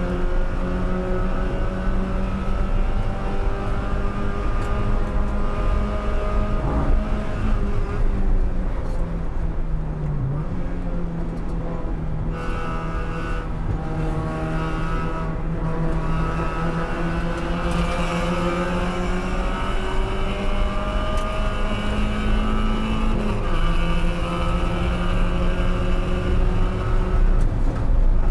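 Spec Miata's 1.8-litre four-cylinder engine, heard from inside the cabin while racing. It runs at high revs, drops in pitch as the car brakes and downshifts near the middle, then pulls back up and steps down once more with an upshift near the end.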